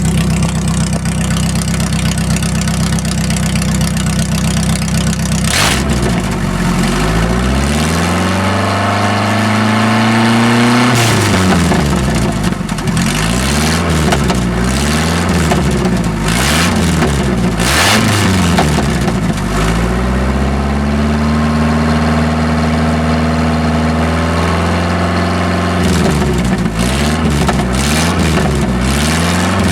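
Ford Ranger's 2.3-litre four-cylinder engine, straight-piped with no muffler, catalytic converter or tailpipe, idling steadily for about five seconds and then revved: a long rise, a run of quick blips, a held rev, and more quick blips near the end.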